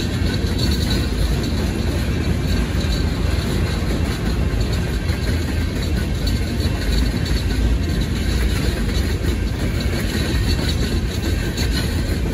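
Freight train's tank cars rolling across a road crossing: a steady, loud low rumble of steel wheels on the rails.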